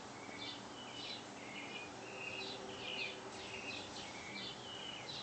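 Birds chirping: short, high chirps and brief whistled notes, several a second throughout, over faint outdoor background hiss.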